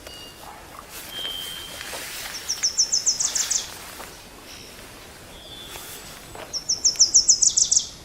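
Small songbird singing a short, quick series of high notes that drops to lower notes at the end, twice about four seconds apart, with a thin whistled call from a bird about a second in, over a faint outdoor background.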